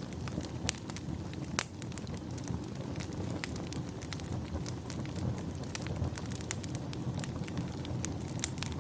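Wood fire crackling in a fireplace: irregular sharp pops and snaps over a steady low rumble, with the loudest pops about a second and a half in.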